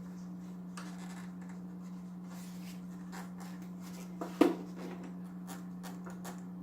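Hands working the plastic UV lamp housing of an aquarium canister filter: small scratching and clicking as the bulb is pushed at its socket, with one sharper knock about four and a half seconds in. A steady low hum runs underneath.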